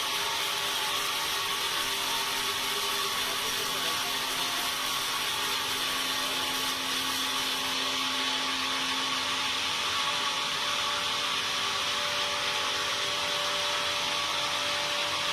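Sawmill saw running steadily, a constant hiss with faint held tones that shift a little in pitch.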